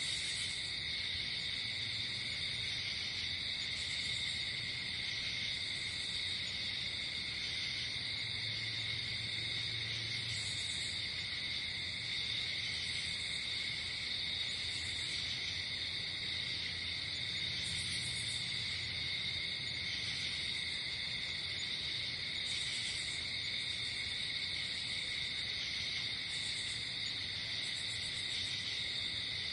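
Night insect chorus: crickets trilling steadily and without pause, with short higher chirps from another insect recurring every second or two over it.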